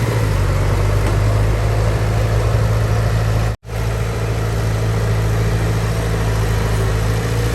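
Heavy diesel engine of earthmoving equipment running steadily at a low, even speed. The sound cuts out completely for a split second about halfway through, then resumes unchanged.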